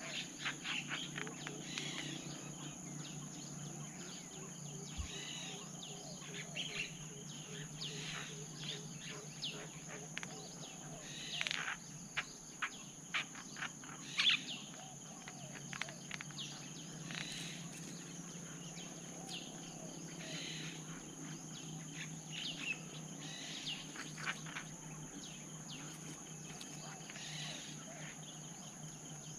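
Forest birdsong: scattered short chirps from small birds over a steady high insect drone, with faint low spotted dove coos.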